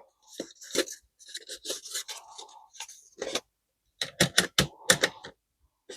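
Antique Chicago typewriter being handled and set up: scraping and rubbing, with sharp mechanical clicks, including a quick run of clicks about four seconds in.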